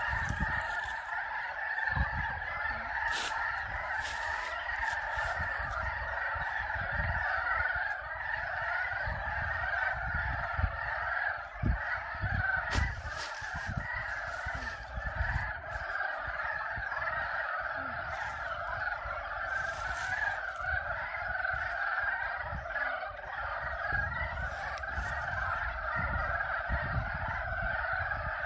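Dense chorus of frogs giving breeding calls at a pond, many voices overlapping into a continuous croaking din. A low, uneven rumble runs underneath.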